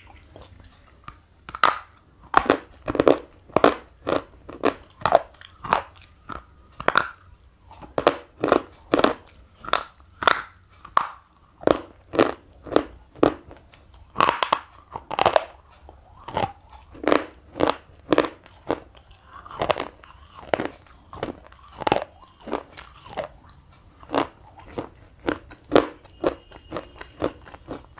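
Thick slate pencil being chewed: a steady run of sharp, dry crunches, a little more than one a second.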